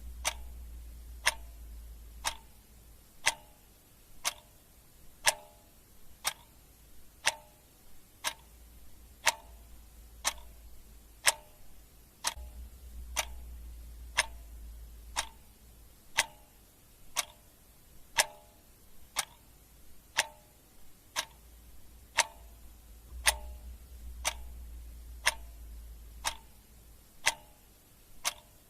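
Clock ticking steadily, one sharp tick about every second. A faint low hum comes and goes underneath.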